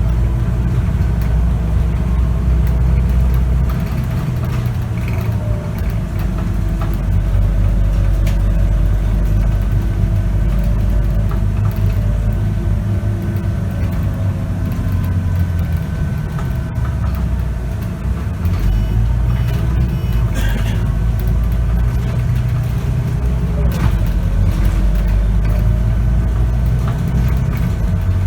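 Scania K94UB city bus engine and ZF automatic driveline heard from on board while under way. The low engine drone eases off about four seconds in, then pulls strongly again some fifteen seconds later, over a thin steady high whine.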